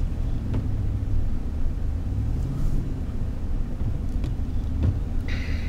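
Low steady rumble of a car creeping along a snow-covered street, heard from inside the cabin, with a few faint clicks and a short hiss near the end.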